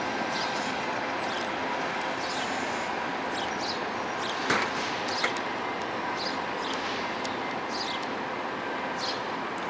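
VIA Rail passenger train rolling slowly away through the station tracks, heard as a steady distant rumble and hiss, with short high chirps recurring every half second or so and two sharp knocks about halfway through.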